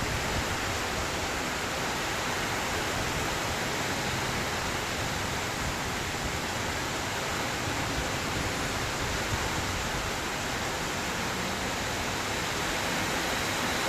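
Heavy rain falling in strong wind: a steady, even rushing noise.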